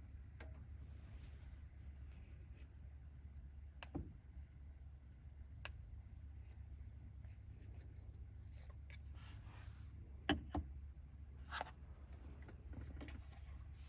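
Scattered light clicks, taps and rustling of small objects being handled in a small enclosed space, over a steady low hum. The sharpest click comes a little past ten seconds in.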